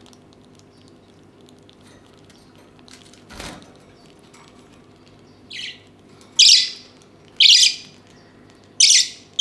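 Young budgerigars squawking: four loud, harsh calls about a second apart in the second half, after a single soft thump.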